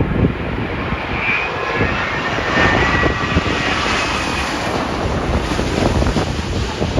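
Jet airliner passing low overhead on final approach to land, its engines roaring with a high whine that rises in the first seconds, with gusty wind buffeting the microphone.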